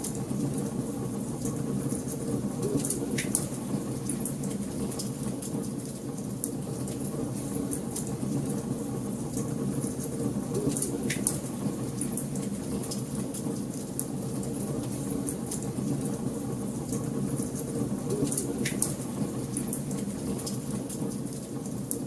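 Wood fire burning in a fireplace: a steady low rumble of flames with scattered small crackles and three sharper pops, about eight seconds apart.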